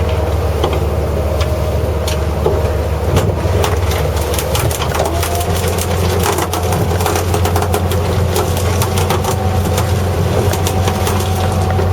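Fishing boat's engine running steadily at trolling speed with a low drone, with a stream of sharp irregular clicks and ticks over it, growing busier a few seconds in.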